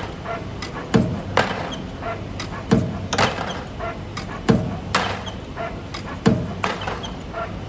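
Sharp knocks in regular pairs, one pair about every two seconds, over a steady low hum.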